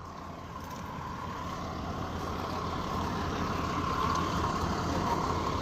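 A vehicle's engine running with a steady drone, growing gradually louder.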